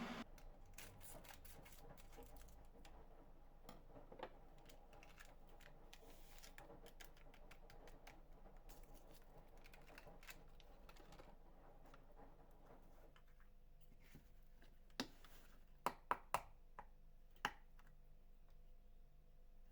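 Faint, scattered small ticks and scrapes of objects being handled, then a handful of sharp separate clicks or taps in the last third.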